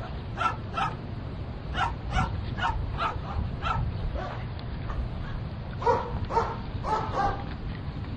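A dog barking over and over in short barks: a run of about seven, a pause of about two seconds, then four more.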